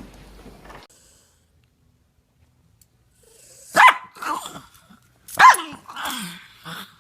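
A small dog barking twice, sharp and high, about a second and a half apart, each bark trailed by fainter yaps.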